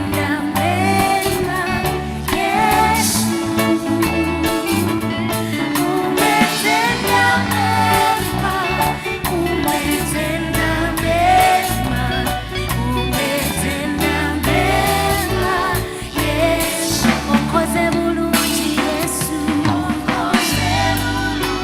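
Live gospel band playing, with singing over bass, drum kit and guitar.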